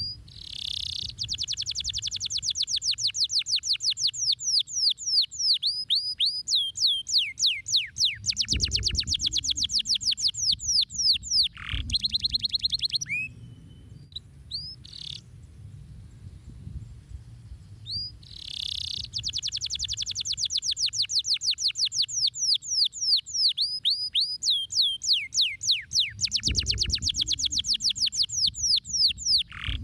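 Domestic canary singing: two long song phrases of fast trills and rapid repeated high notes, each lasting about twelve seconds, with a pause of a few seconds between them.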